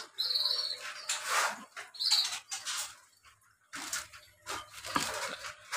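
Short high bird chirps from caged birds, near the start and again about two seconds in, over rustling and knocks from a phone carried on the move.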